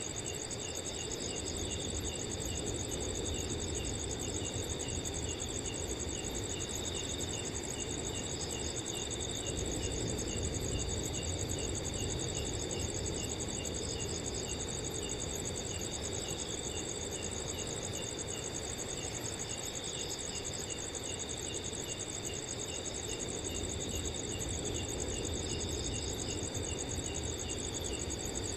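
Several crickets calling together: a continuous high trill and a steady lower trill under an evenly repeating chirp, with other chirps joining in now and then. A soft, steady low rush of wind lies beneath.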